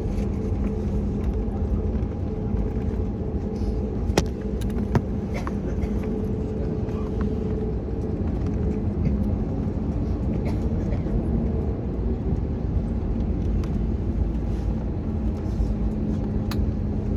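Cabin noise of an Airbus A321neo taxiing after landing: a steady low rumble from its CFM LEAP-1A engines at idle and the wheels rolling, with a steady hum running through it. Two sharp clicks come about four and five seconds in.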